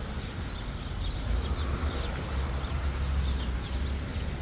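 Birds chirping in quick, high, falling notes, over a steady low rumble of wind on the microphone.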